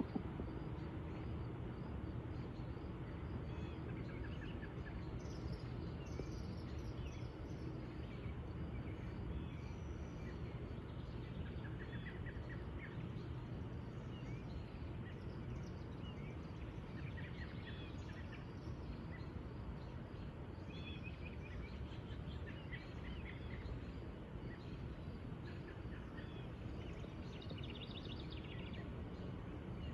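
Evening outdoor ambience: small birds chirping in short scattered calls over a steady low background rumble.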